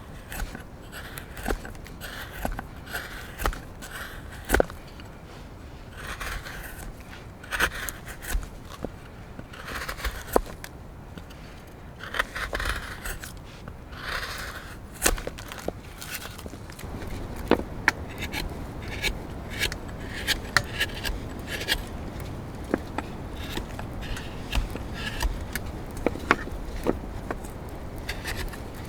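Repeated short scraping strokes, then many sharp clicks and taps.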